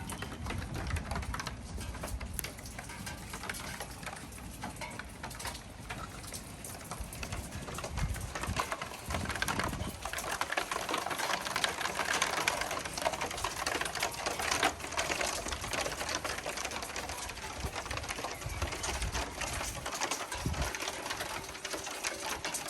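Rain pattering steadily in a thunderstorm, a little heavier in the middle, with low rumbles now and then.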